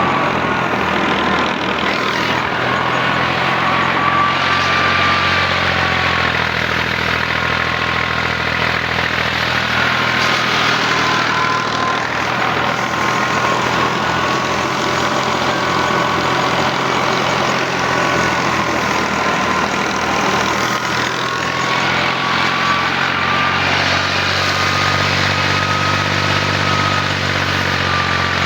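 Al-Ghazi tractor engine running steadily while driving a mustard thresher, with a high machine whine that slowly wavers up and down in pitch; the engine's low note grows stronger near the end.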